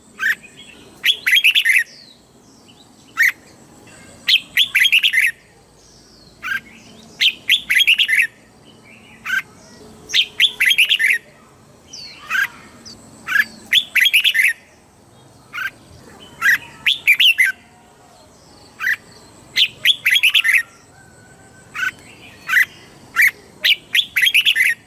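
Red-whiskered bulbul singing: short, quick chirping phrases of up to about a second, repeated every one to two seconds.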